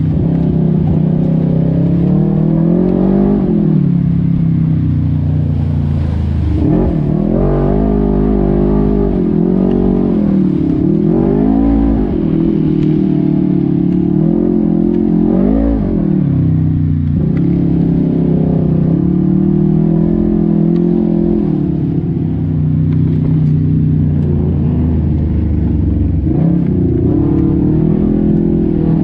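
Off-road vehicle engine running hard, its revs surging up and falling back several times, with steadier running in between.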